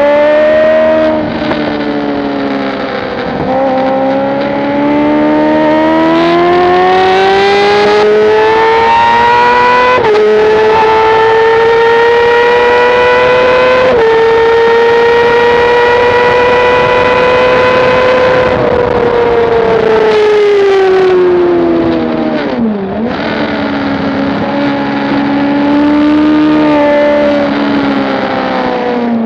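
Motorcycle engine at full throttle on a racetrack, heard from on the bike over wind noise. The revs climb in steps through the first ten seconds and hold high for several seconds, then fall away as the bike slows, with a short dip a little over twenty seconds in, before climbing again near the end.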